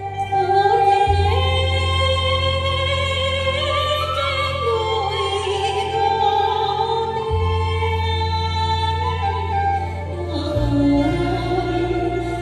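A solo voice singing a slow, wavering melody over amplified backing music, with long held bass notes that change three times.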